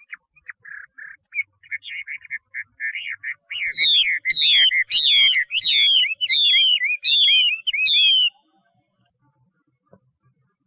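Chinese hwamei (画眉) singing: a quick run of short chattering notes, then a string of about seven loud, clear whistled phrases, each sliding down in pitch. The song stops about two-thirds of the way through.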